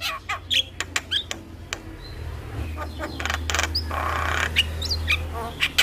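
Javan myna (jalak kebo) song: a quick run of sharp clicks and short whistled notes, broken in the middle by a harsh rasping squawk lasting about a second and a half. A steady low hum runs underneath.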